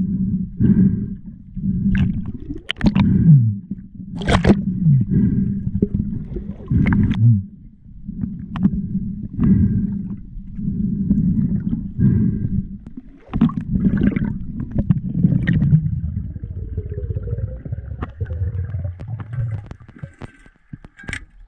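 Muffled underwater rumbling and bubbling that comes in uneven surges about once a second, with sharp clicks and knocks scattered through it.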